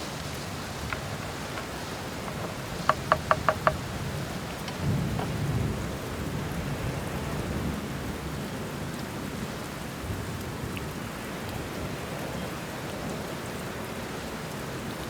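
Steady hiss of rain with low rumbling, and a quick run of five sharp ticks about three seconds in.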